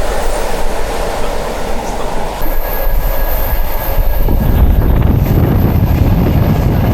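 Passenger train running along the rails: a steady rumble and rush of the moving car that grows heavier about four seconds in, with a faint thin squeal in the middle.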